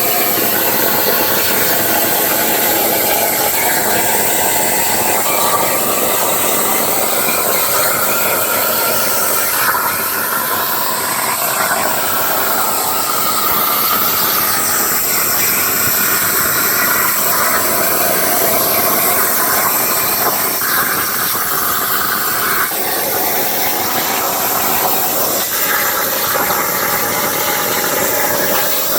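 Plasma torch of a Langmuir Crossfire XR CNC table cutting through a steel saw blade: a steady loud hiss with a whine that steps up and down in pitch every few seconds.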